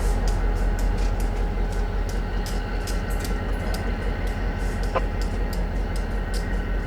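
Diesel locomotive hauling a short track geometry train at low speed. A steady heavy low rumble carries a few faint steady tones and many scattered sharp clicks.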